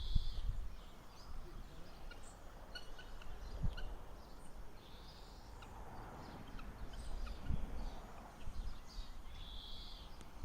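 Birds calling intermittently, several short chirps and a few longer calls, over a low steady rumble.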